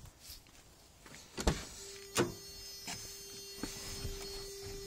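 A pickup truck's door being handled, with two sharp clunks, and a steady single-tone warning buzzer that comes on about two seconds in and sounds for about three seconds.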